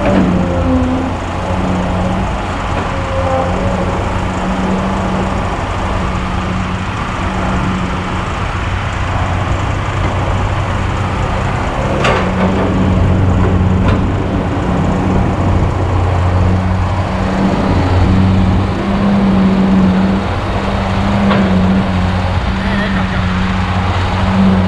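Diesel engine of a Kobelco SK200 hydraulic excavator running steadily while it works, with a few sharp knocks about halfway through and again later.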